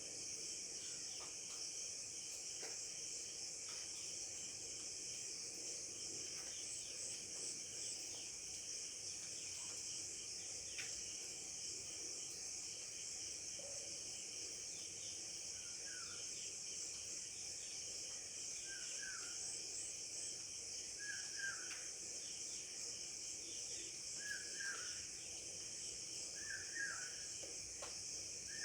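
A steady, high-pitched insect chorus with scattered small bird chirps. From about halfway, a short bird call repeats about every two and a half seconds.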